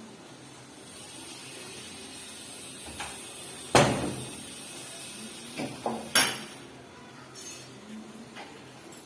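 A sharp knock about four seconds in, then a few lighter knocks and clatters about two seconds later.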